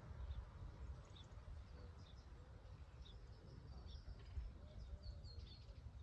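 Faint, scattered short bird chirps over a low, steady outdoor rumble.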